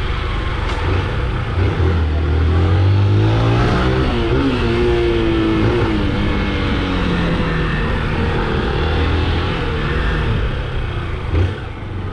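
Motorcycle engine running while riding, its note rising about two to four seconds in and then dropping back, over a steady rush of wind and road noise.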